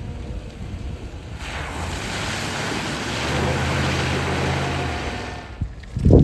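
Four-wheel-drive vehicle driving through mud and water: the engine runs under load while a rush of splashing spray lasts about four seconds, followed near the end by a loud thump.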